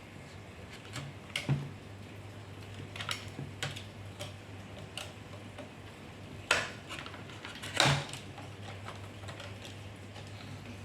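Irregular light clicks and knocks as juicer plastic parts and hand tools are handled during a repair, spaced a second or more apart, with two louder knocks around six and a half and eight seconds in, over a faint steady low hum.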